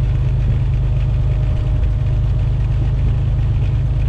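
Semi truck's diesel engine and road noise as a steady, low drone inside the cab while cruising at about 55 mph on a wet highway.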